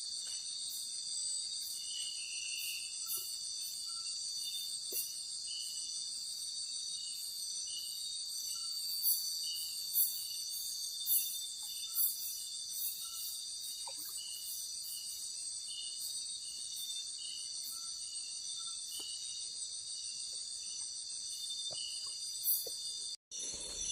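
Night insect chorus: a steady, high-pitched, many-layered trilling, with a few faint clicks or knocks here and there. It cuts out for a moment near the end.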